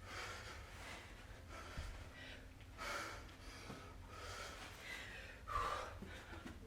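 Heavy, faint breathing, one breath about every second or so, with a couple of faint knocks.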